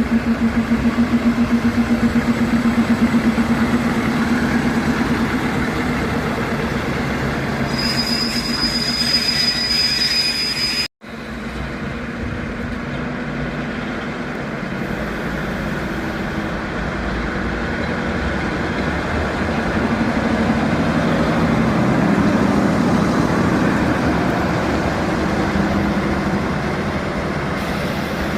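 SM30 diesel shunting locomotive moving on station tracks, its engine running with a pulsing hum. A thin, high wheel squeal comes in about eight seconds in and lasts a couple of seconds. The sound drops out for an instant about eleven seconds in, then continues as a steady rumble.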